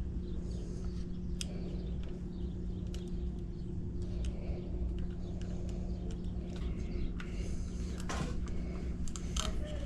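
Scattered light clicks and taps, more of them near the end, over a steady low hum.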